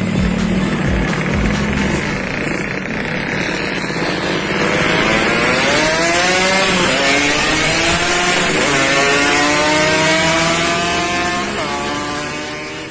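Yamaha RX-King two-stroke motorcycle with an aftermarket 'setengah dewa' exhaust, first a low rumble, then accelerating through the gears: the engine pitch climbs and drops sharply at each of three shifts.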